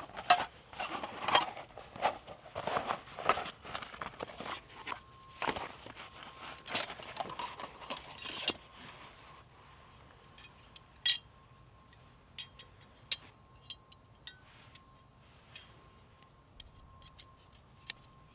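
Close handling sounds: several seconds of dense rustling, scraping and clinking, then a few isolated sharp clicks. A faint steady high tone runs underneath from about the middle on.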